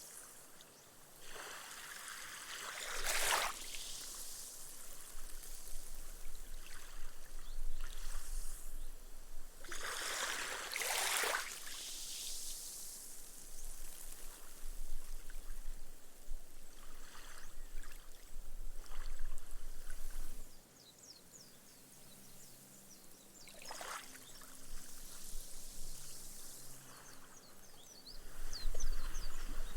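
Small, gentle sea waves washing up a sandy beach and soaking into the sand, in several slow swells with the strongest about 3 and 11 seconds in. The foam fizzes and crackles as it sinks into the sand, most clearly near the end.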